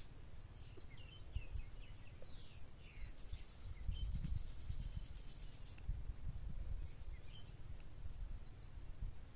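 Small birds chirping, with a fast trill about three to six seconds in, over a low rumble.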